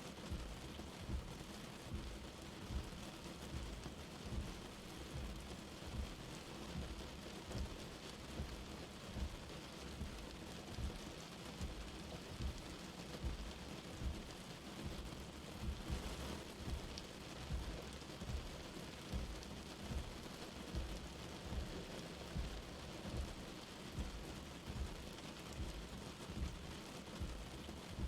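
Light rain falling steadily, a constant soft hiss with low dull drop thuds about once a second.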